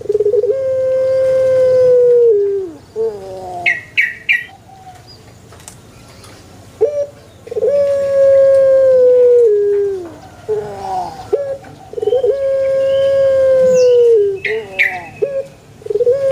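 Male puter dove (Barbary dove) cooing: three long drawn-out coos, each about two and a half seconds and sagging in pitch at the end, with shorter notes between. Brief high chirps come twice, about four seconds in and near the end.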